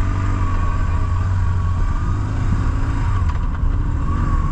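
BMW R1150GS Adventure's flat-twin boxer engine running steadily under way, heard from on the bike as a continuous low rumble with a steady whine above it.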